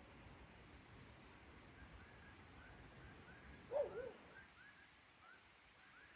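Faint rural dusk ambience: a bird chirping softly about twice a second over a steady high hiss, and one louder, short two-note animal call about four seconds in.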